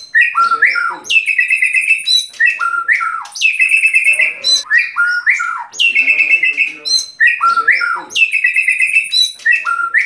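A bird's call repeated in an even rhythm about once a second: each time a quick falling whistle followed by a harsh, buzzy note.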